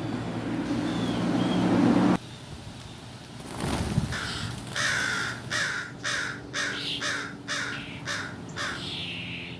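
American crow cawing in a quick series of about eight short calls, roughly two a second, through the second half. Before that, a rising noise with a low hum grows louder and cuts off suddenly about two seconds in.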